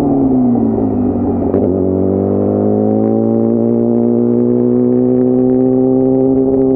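Yamaha YZF-R6 inline-four engine at speed: the revs fall for about the first second as the bike slows, then climb steadily as it accelerates in one gear.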